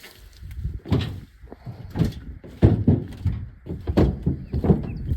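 Footsteps and camera handling noise from someone walking while carrying the camera and tools: a string of irregular thumps, about one every half second to a second.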